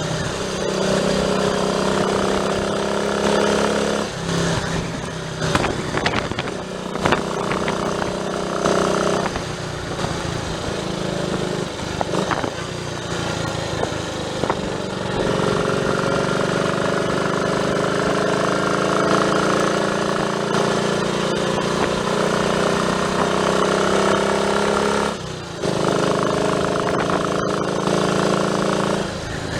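Triumph Tiger Cub's single-cylinder four-stroke engine running on the road, its note shifting with the throttle and dipping briefly twice.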